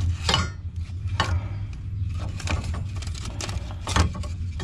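Irregular metallic clicks and knocks of tools working against a broken rear coil spring on the strut, over a steady low hum.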